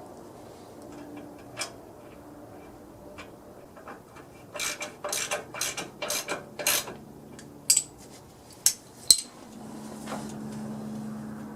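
Metal parts and hand tools clinking and rattling as the tractor is put back together: a run of rattles about halfway in, then three sharp ringing clinks, followed by a steady low hum near the end.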